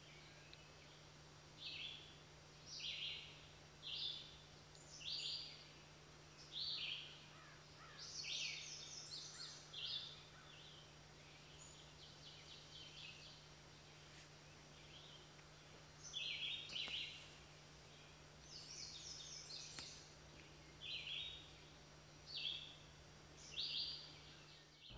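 Birds chirping in short, high bursts about once a second, with a lull of several seconds midway, over a faint steady low hum.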